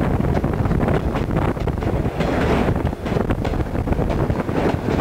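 A train car rolling along the track, with a steady low rumble and clatter from the wheels and rails. Wind buffets the microphone from the car's open platform.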